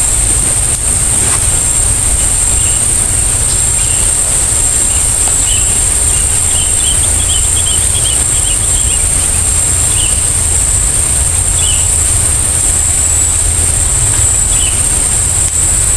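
Steady high-pitched insect drone over a low rumble, with short bird chirps coming and going through the middle.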